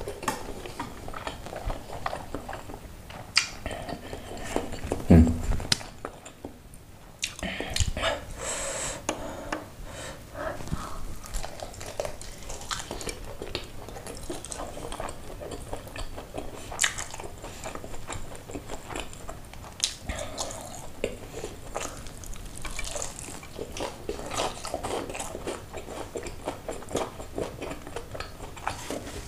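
Close-up eating sounds: a person biting into and chewing crispy fried chicken (ayam geprek), with many short mouth clicks and crackles and a louder knock about five seconds in.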